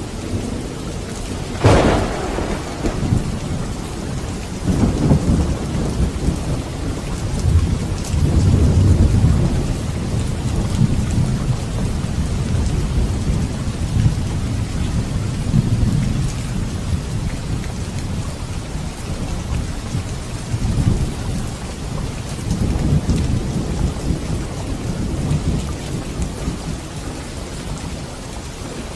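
Heavy, steady rain with thunder: a sharp thunderclap about two seconds in, then low rolling rumbles that swell and fade several times.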